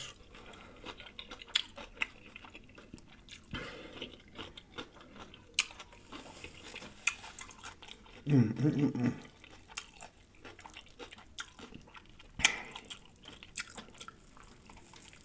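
Close-miked chewing of corned beef, with wet mouth clicks and smacks throughout and a few louder bites. A short hum of the voice comes about eight seconds in.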